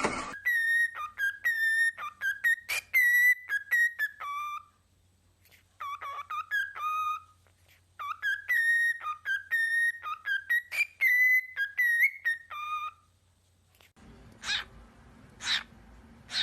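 A pet parrot whistling a short tune of clear notes, repeating the same phrase with brief pauses. Near the end come a few short harsh calls, about a second apart.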